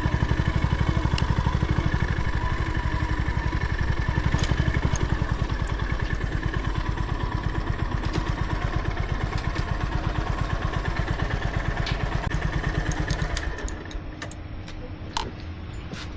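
Honda GB350's air-cooled single-cylinder engine idling with an even, fast pulse, then stopping about thirteen seconds in. A few sharp clicks follow.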